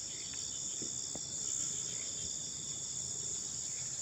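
Night insect chorus, crickets chirring steadily at a high pitch, with a couple of faint ticks about a second in.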